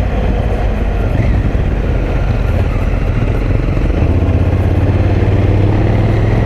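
Adventure motorcycle engine running steadily while riding a dusty dirt road, with wind and road noise over it. The low engine note grows stronger about four seconds in.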